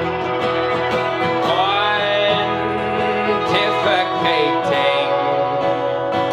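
Live acoustic band playing a country-style song, an instrumental stretch between sung lines with plucked strings and a few notes that slide upward.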